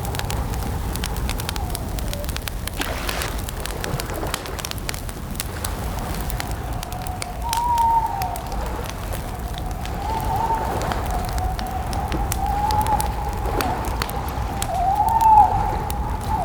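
Campfire crackling: many sharp snaps and pops over a low rumble. Over it runs a wavering, bird-like call that rises and falls in arcs, louder near the end.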